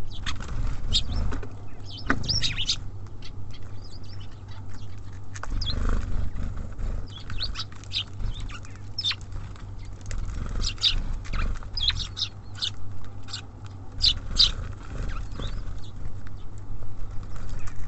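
Small songbirds at a feeder chirping in short, high, scattered calls, more of them in the second half, with light taps over a steady low rumble.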